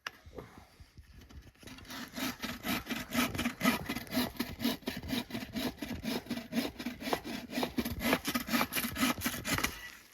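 Hand saw cutting through a piece of wood in quick, even back-and-forth strokes. It starts about two seconds in and stops just before the end.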